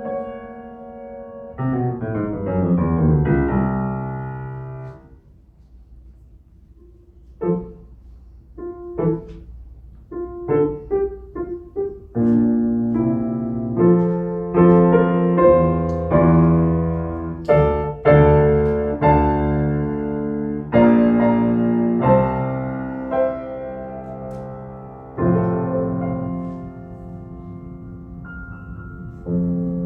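Solo piano improvisation: a fast run of notes stepping downward near the start, then sparse single notes, then full, ringing chords from about twelve seconds in.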